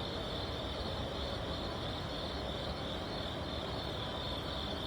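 Steady chorus of crickets: a continuous high-pitched chirring over a low, even background rumble.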